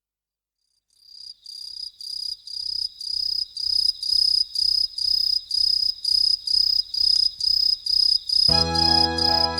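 Cricket chirping fades in after about a second of silence, a steady, even pulse about twice a second. Near the end, a music track with bass and keyboard chords starts under the chirping.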